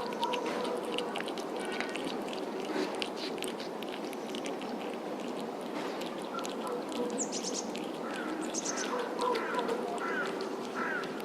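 Birds chirping, a run of short downward-sliding calls in the second half, over steady background noise and faint clicks.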